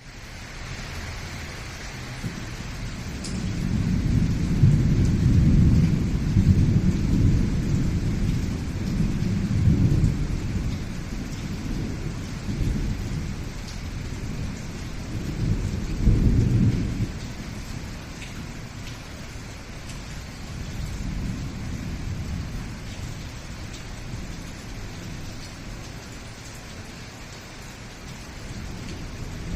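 Thunderstorm: steady rain with rolling thunder, a long rumble swelling about four seconds in and lasting several seconds, and another peak around sixteen seconds, then a quieter rumble and rain.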